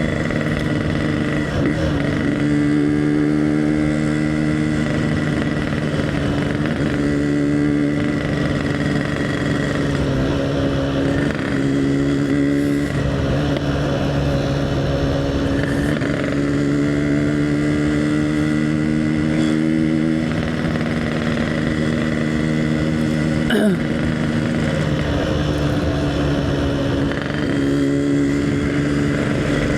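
Yamaha RX-King's single-cylinder two-stroke engine running while the bike is ridden along, its pitch rising and dropping several times with throttle and gear changes. A single sharp click comes about two-thirds of the way through.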